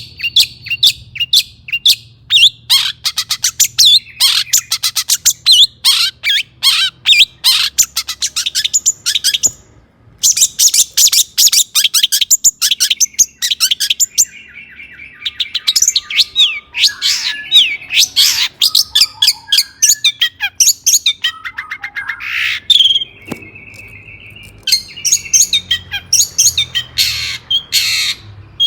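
Long-tailed shrike (cendet) singing a rapid, varied song of harsh chattering notes and squawks mixed with mimicked calls of other birds, with a short break about ten seconds in and a few held whistled notes later on.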